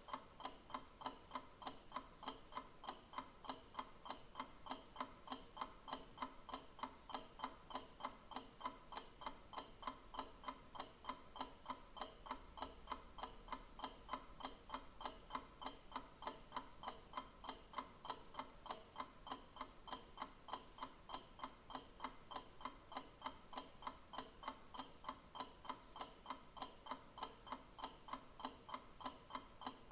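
Clock ticking in an even, unbroken rhythm of sharp, regular ticks.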